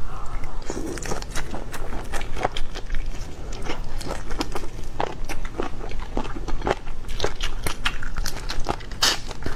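Close-miked crunchy biting and chewing of stuffed shrimp: a continuous run of sharp, crisp crunches.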